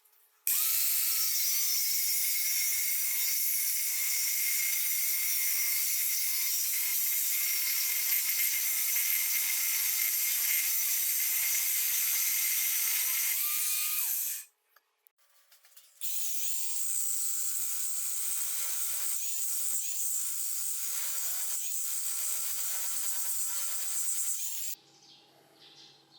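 A small power tool running in two long stretches, first about fourteen seconds, then after a brief pause about nine seconds, with a steady high whine.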